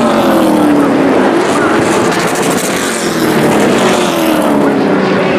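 Race trucks' engines running at racing speed on a short oval, the engine note falling twice as trucks go past and lift into the turn.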